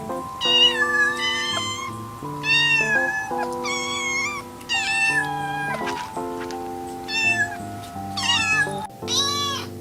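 A kitten meowing over and over, about seven high-pitched meows, each rising and then falling, over background music of steady held chords.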